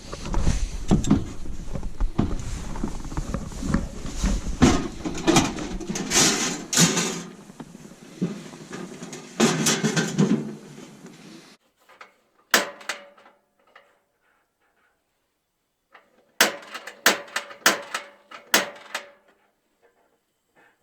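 Gear being handled: rustling with repeated clunks and knocks, like doors or drawers being opened and shut. It cuts suddenly to quiet about halfway through, after which a few sharp knocks and clicks come in two short clusters.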